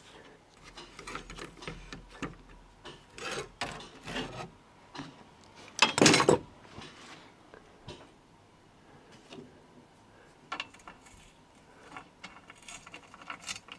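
Scattered clicks, knocks and scraping, with the loudest a sharp knock about six seconds in.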